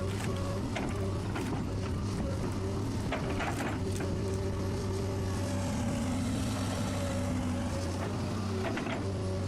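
Heavy wood-processing machine running steadily under a deep engine hum, with a few sharp knocks and cracks about three and a half seconds in and again near the end.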